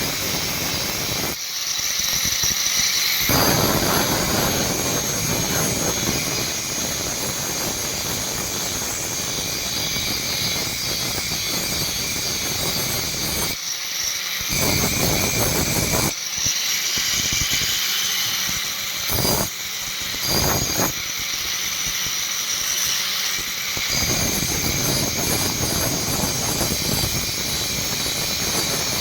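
A workshop machine running steadily with a high whine and a rushing noise. The lower rushing part drops away for a few stretches, the longest from about 16 to 24 seconds in.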